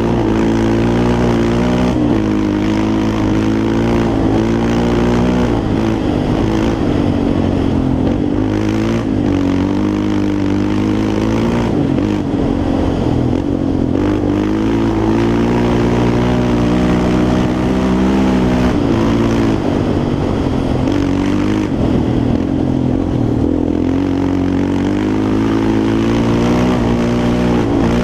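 Yamaha Raptor 350 quad's single-cylinder four-stroke engine under riding, its note rising and falling over and over as the throttle opens and closes and the gears change.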